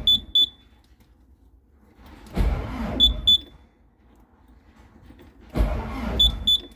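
Tractor engine being cranked in short bursts about three seconds apart without catching. Each burst ends with two or three sharp high warning beeps from the cab. It is a cold engine that will not start on its own battery.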